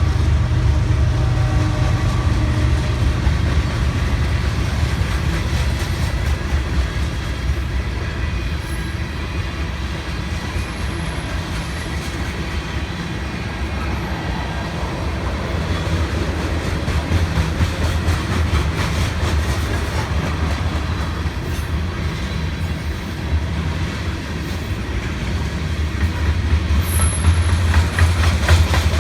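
Long freight train's cars rolling past close by: a steady, continuous rumble with wheel and rail noise that does not let up.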